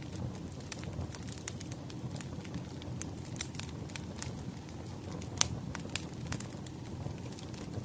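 Wood fire crackling steadily, with irregular sharp pops over a low rumble; one louder pop comes about five and a half seconds in.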